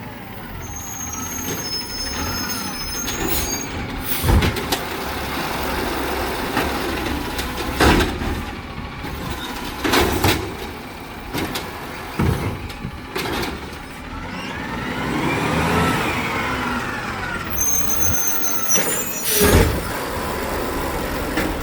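Garbage truck at work: the engine runs steadily, several sharp bangs come a few seconds apart, and the engine or hydraulics rise and fall in pitch about two-thirds of the way through.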